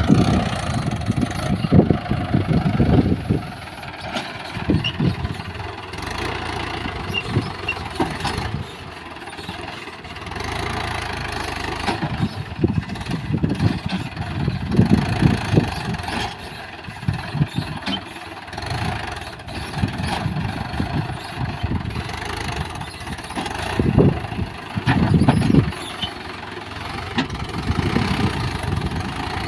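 Diesel engine of a JCB 3DX backhoe loader running. Its sound swells and drops irregularly every second or two over a steady low hum.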